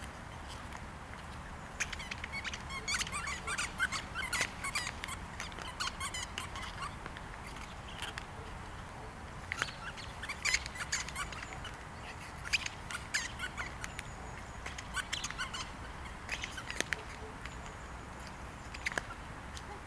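Small birds chirping in scattered bursts of short, high calls over a steady low background rumble.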